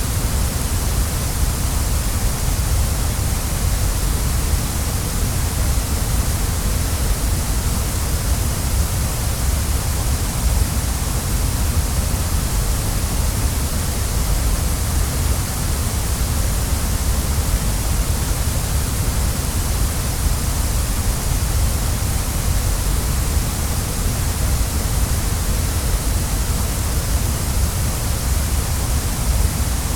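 Waterfall: falling water in a steady, unbroken rush, with a deep rumble underneath and a bright hiss on top.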